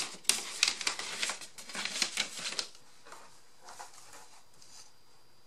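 Rapid sharp clicks and rustling of craft materials being handled by hand, dense for the first two and a half seconds, then a fainter rustle about four seconds in.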